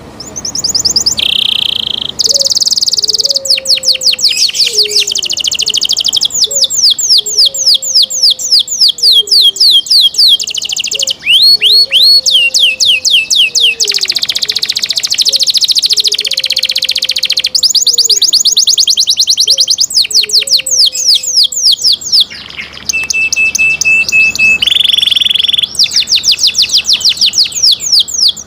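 Domestic canary singing a long, continuous song of rapid repeated trills and rolls, with a short steady held note about three-quarters of the way through.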